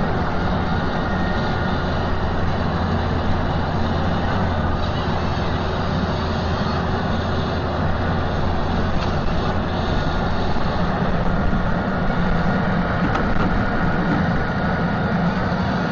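Heavy machinery running steadily: a continuous low engine hum with a faint whine above it.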